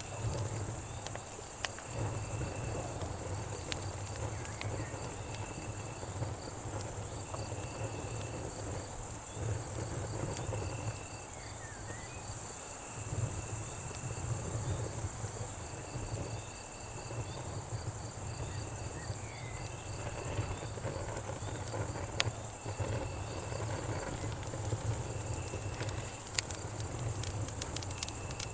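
A steady, high-pitched night chorus of crickets and cicadas. One insect gives a short chirp about every two seconds, and a faster pulsing trill runs above it. Scattered small pops of campfire crackling and a low rumble sit underneath.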